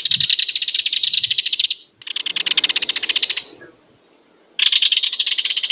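Kingfisher giving a rapid, rattling call: three bursts of fast, high, evenly repeated notes with short pauses between them.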